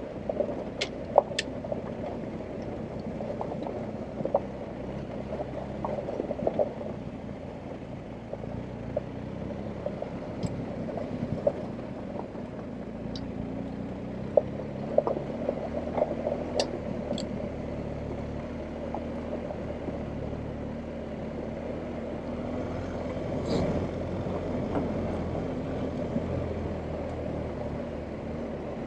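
BMW R1250GS Adventure's boxer-twin engine running steadily at low revs while the bike is ridden off-road, with scattered sharp clicks and knocks through the run.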